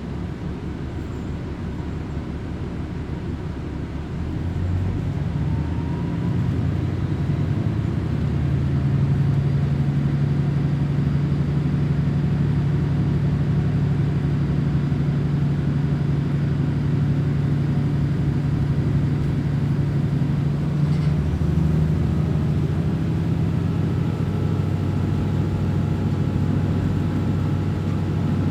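Diesel railcar running, heard from inside the car: engine drone and rail rumble. The engine grows louder about four seconds in as it works under power, holds a steady note, and changes to a lower note about three-quarters of the way through.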